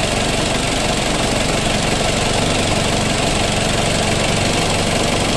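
Perodua Myvi engine idling steadily with the radiator cap off, run so that the fresh coolant water circulates into the engine block while the system is topped up after a flush.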